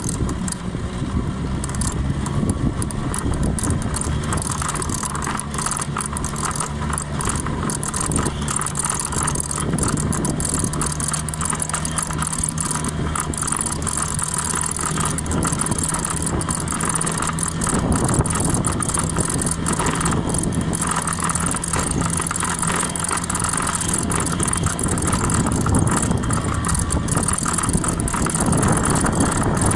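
Small 50 cc Honda scooter engine running steadily, holding an even pitch.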